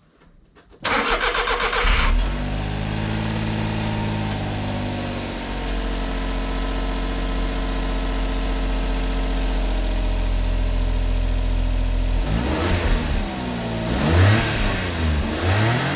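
Suzuki Carry kei truck engine cranked by the starter for about a second, catching and settling from a slightly faster idle into a steady idle. Near the end it is revved up and down a few times, heard through the exhaust.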